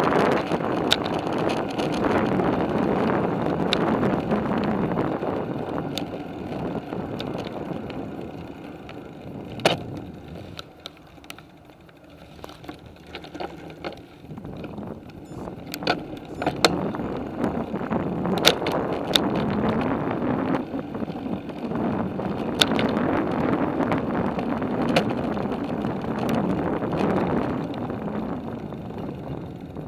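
Bicycle riding along a paved trail: steady tyre and wind rumble with many sharp rattles and clicks from the bike over bumps. The rumble drops away for a few seconds about a third of the way in, then picks up again.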